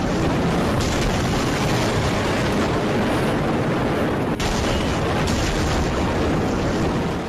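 Loud, steady roar of rushing floodwater.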